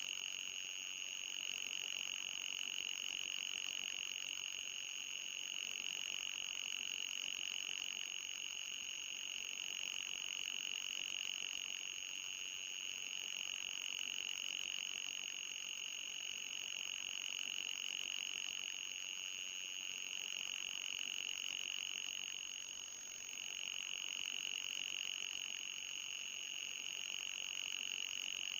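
Electronic anti-mosquito repellent tone: a steady, high-pitched whine with a fainter, higher steady tone above it, dipping briefly about twenty-three seconds in.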